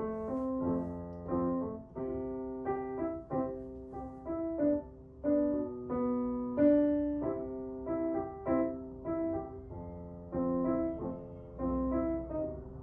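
Background piano music, a gentle melody of single notes over chords.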